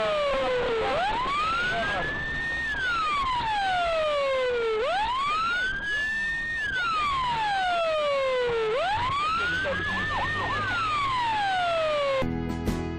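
Emergency vehicle siren wailing, its pitch rising and falling slowly about every four seconds, three times over. It cuts off suddenly near the end as guitar music begins.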